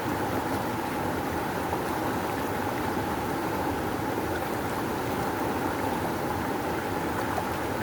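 Fast-flowing river water rushing steadily, an even, unbroken roar of current.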